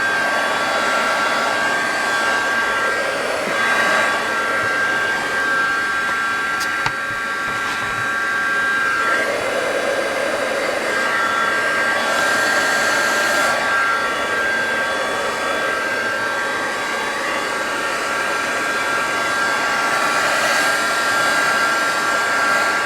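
Electric heat gun running steadily, a rush of blown hot air with a high steady hum, as it melts material into a jagged rock shape.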